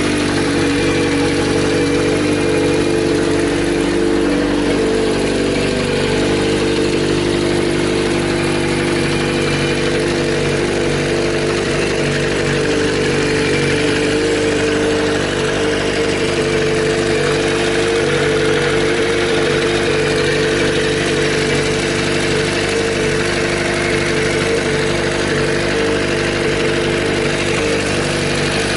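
Kawasaki Z400J motorcycle's air-cooled inline-four engine idling steadily.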